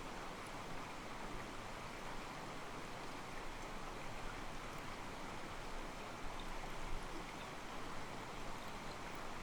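Mountain stream, water sloshing against rocks in a steady, soft rush.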